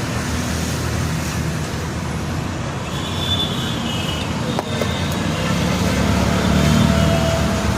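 A steady low engine hum with road traffic noise, growing slightly louder near the end, and a single sharp click about halfway through.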